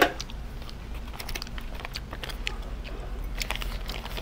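A person chewing crispy fried spring rolls close to the microphone: scattered small crunches and mouth clicks, with a sharp crunch at the start and denser bursts of crunching about a second in and again near the end.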